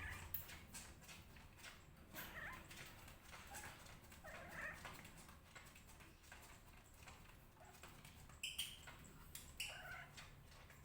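Faint, short cat meows, about five of them spaced a couple of seconds apart, with faint light clicks between them.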